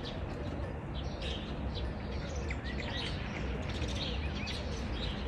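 Birds chirping: many short, high chirps over a steady low hum.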